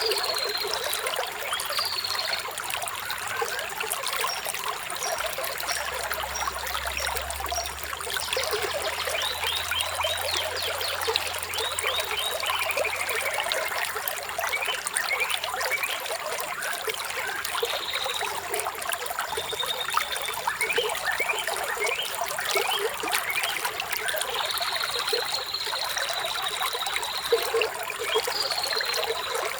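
Small stream trickling and splashing steadily, with birds chirping: short whistled calls come and go, and a quick falling run of notes sounds about halfway through.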